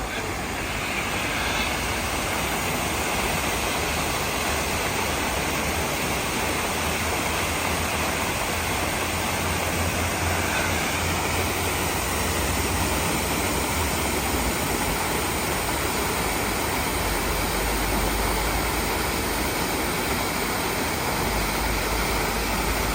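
Düden waterfall's steady rush of falling water, an even, unbroken noise with a low rumble underneath.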